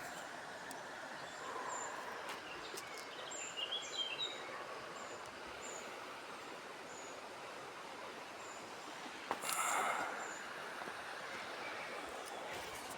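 Outdoor countryside ambience: a steady background hiss with small birds chirping, high short calls repeating every second or so. There are a few faint clicks, and a louder rustling burst about nine and a half seconds in.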